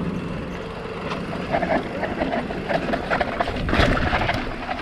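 Mountain bike clattering over a rough, rocky trail, its chain and frame rattling under a steady rush of noise. The rattle gets louder about four seconds in.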